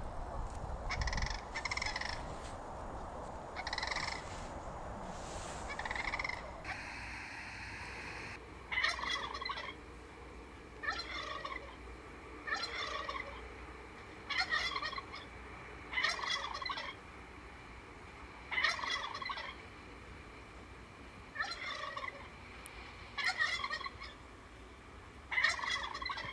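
Sandhill cranes calling: repeated calls, faint at first, then louder and regular, about one every one to two seconds from about a third of the way in.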